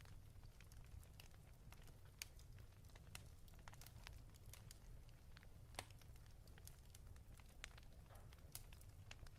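Faint crackling of a wood fire in a fireplace: irregular sharp pops and snaps over a low steady rumble, with the sharpest pops about two seconds in and near the middle.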